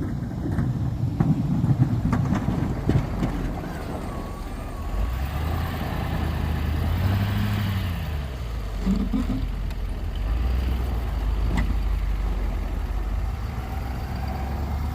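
Snowplow pickup truck's engine running, with a few knocks early on; it revs up about five seconds in, then eases back and keeps running steadily.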